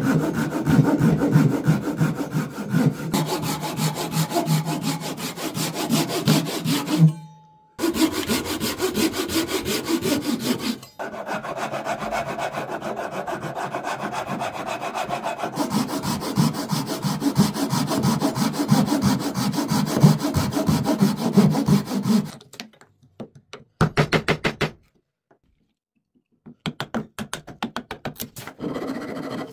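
Hand saw cutting through wood, a quick steady rasp of strokes. The sawing comes in stretches with short breaks, then turns to scattered brief strokes near the end.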